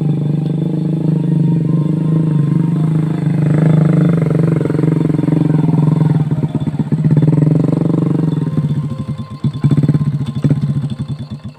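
Motorcycle engine running hard under load, rising in revs twice and easing back, then turning choppy and falling away near the end.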